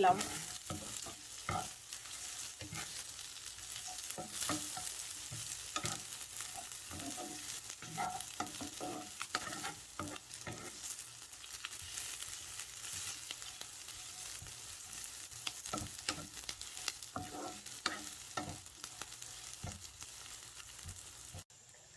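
Sliced onions and green chillies sizzling in hot oil in a pan, with a spatula scraping and knocking against the pan as they are stirred. The sound stops abruptly near the end.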